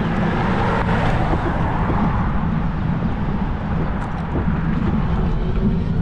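Steady rumble of wind on the microphone and tyre noise while riding a Cyrusher Kommoda 20-inch fat-tire e-bike.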